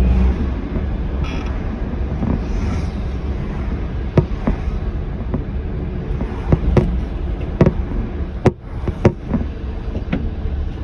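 Enoshima Electric Railway (Enoden) train passing over a level crossing: a steady low rumble with sharp, irregular clacks, several in close pairs, from the wheels crossing rail joints.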